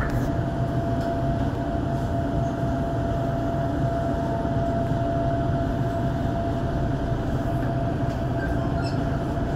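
Electric commuter train running slowly, heard from aboard: a steady low rumble with a constant thin tone above it and a few faint clicks near the end.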